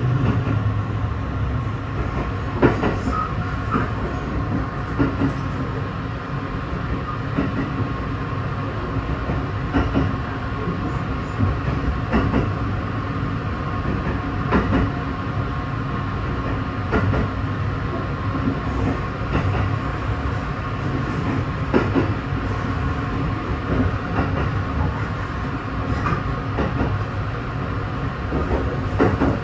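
Sunrise Izumo sleeper train (JR Class 285) running steadily, heard from inside the carriage: a continuous low rumble with a steady hum, and sharp wheel clicks over rail joints about every two and a half seconds.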